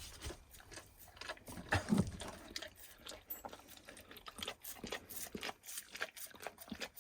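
Dog licking a plate clean: a quick run of short, wet lapping and smacking sounds, with a louder knock about two seconds in.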